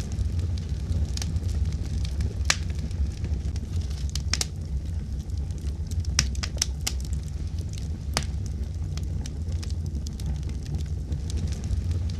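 Wood fire burning in a fireplace: a steady low rumble with scattered sharp crackles and pops, a few louder pops at irregular intervals.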